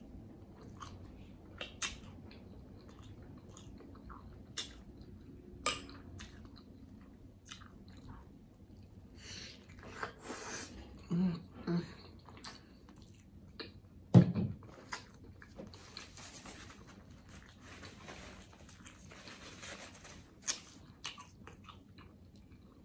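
Close-miked chewing of a pretzel-bun double cheeseburger with cheese sauce: wet mouth clicks and smacks at an uneven pace, with a louder sound about 14 seconds in.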